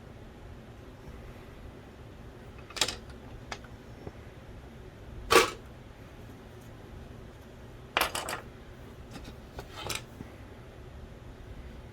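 Handling noises during disassembly of a Philips DVD drive: a few separate clicks and clacks of small plastic and metal parts, the loudest about five seconds in, and a quick cluster of them about eight seconds in.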